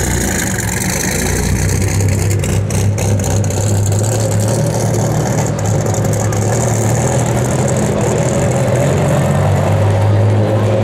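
Dodge Viper GTS V10 running at low revs through its twin centre exhausts, a steady deep burble as the car idles and pulls slowly away, with no hard revving.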